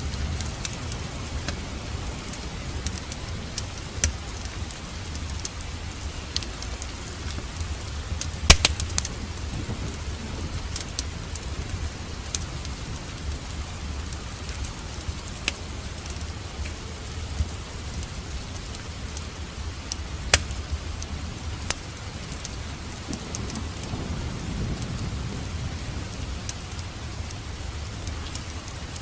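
Steady rain with a low rumble of thunder that swells about 23 seconds in. Scattered sharp pops from a crackling wood fire sound over it, the loudest about eight seconds in.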